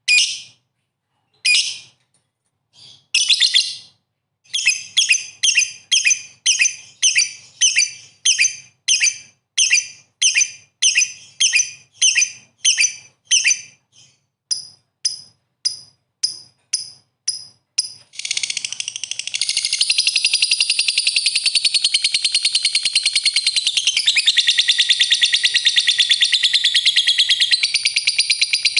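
Lovebird calling: a string of high, short chirps about two a second, then about 18 seconds in it breaks into a continuous rapid chattering trill.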